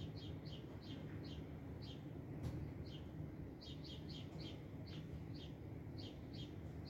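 A small bird chirping over and over, short falling notes about two or three a second with a brief pause in the middle, over a faint low rumble.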